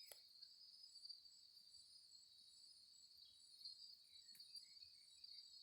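Faint, steady high-pitched chorus of crickets chirring, with two small sharp clicks, one at the very start and one about four and a half seconds in.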